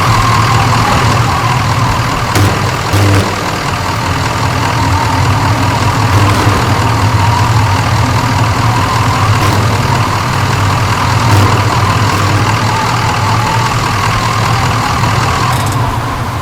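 Car driving, with a steady engine and road noise and a few short knocks.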